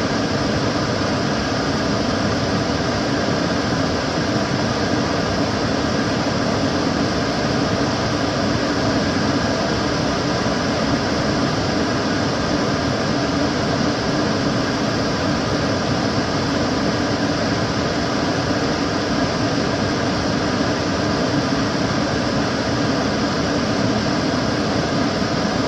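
Kitchen cooker hood extractor fan running steadily, a constant whooshing air noise with a low hum.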